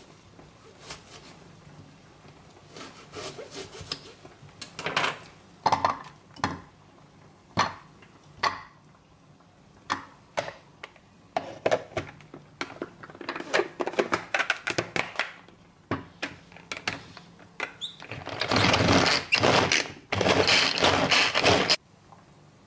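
Kitchen preparation sounds: scattered knocks and clicks of utensils and dishes, with a run of quick taps in the middle, then a loud continuous rushing noise for about four seconds near the end that stops abruptly.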